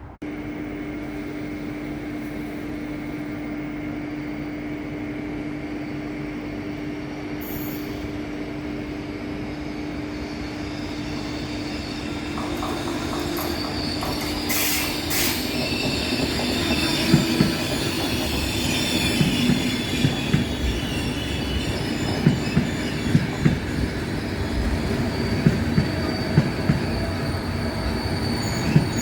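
Train running through a station. A steady hum rises slowly over the first half, then the wheels knock rhythmically over rail joints, with a thin high squeal toward the end.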